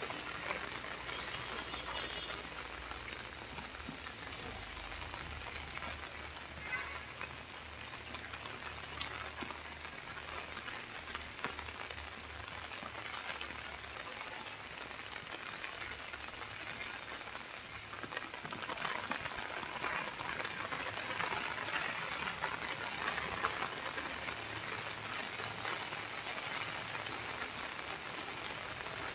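Steady rain falling, a continuous hiss that grows louder from about eighteen seconds in.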